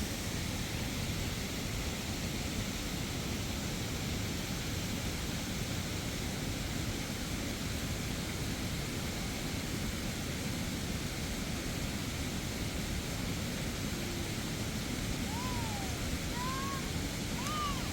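Steady rush of falling water from a waterfall, an even hiss and rumble at a constant level. Near the end a few short rising-and-falling calls sound over it.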